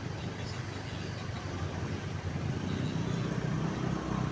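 A vehicle engine running with a steady low rumble, a little louder from about halfway in.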